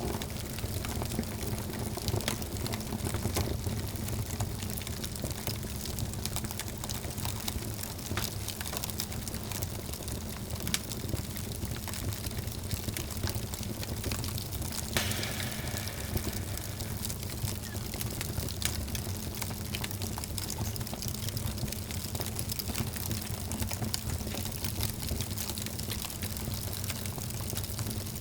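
Wood fire crackling: many sharp, irregular pops and snaps over a steady low rumble of the flames, with a brief brighter hiss about halfway through.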